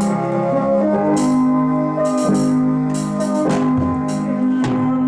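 Keyboard playing held organ-like chords that change every second or so, with several crisp percussion hits over them: the accompaniment of a gospel song.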